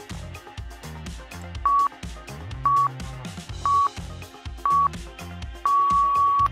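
Interval timer counting down: four short electronic beeps about a second apart, then one long beep at the same pitch, marking the switch between work and rest periods. Electronic dance music with a steady beat plays underneath.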